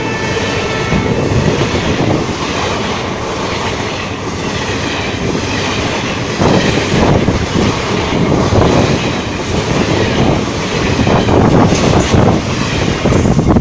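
Passenger coaches of an express train passing close by at speed without stopping, their wheels clattering rhythmically over the rail joints, with louder bunches of clatter about halfway through and again near the end.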